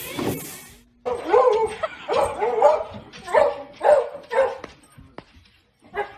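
A dog barking in a quick run of short, sharp barks, about seven in three seconds, then a pause and a few more barks near the end.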